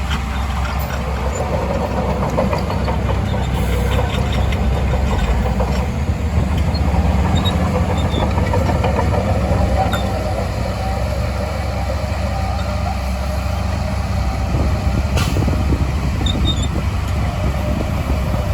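Shantui DH17C2 bulldozer's diesel engine running at work, a steady low drone that swells slightly partway through.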